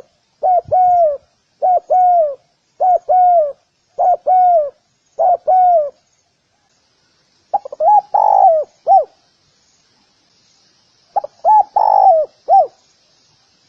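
Spotted dove cooing. Short paired coos, each falling slightly at the end, repeat about once a second for six seconds. After a pause come two longer, rougher coo phrases.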